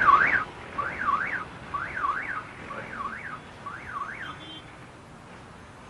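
An electronic siren-like warble: pairs of rising-and-falling sweeps repeat about once a second and fade steadily away.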